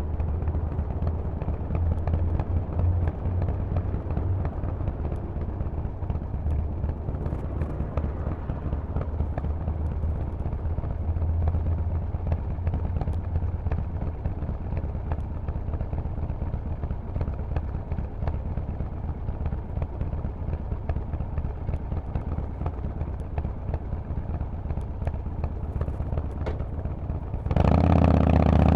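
Harley-Davidson Forty-Eight's V-twin running through a loud Vance & Hines exhaust, a low, steady rumble at modest revs. It gets abruptly louder near the end as the engine takes more throttle.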